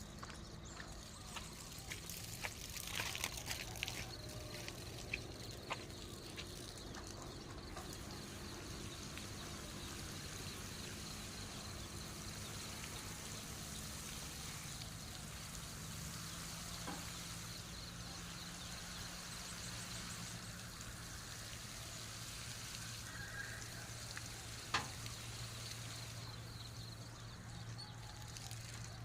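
Water pouring and trickling steadily, as when watering plants, over a low steady hum, with a few scattered clicks early on and one sharp knock near the end.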